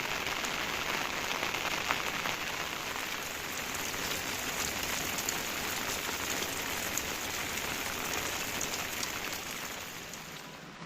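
Steady rain falling, with scattered drops ticking through the hiss; it eases a little near the end.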